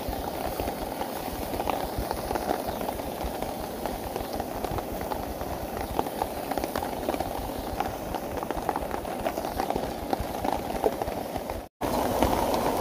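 Sliced haggis, onion rings and mushrooms frying in a camp frying pan: a steady sizzle with many small irregular crackles. It cuts out briefly near the end.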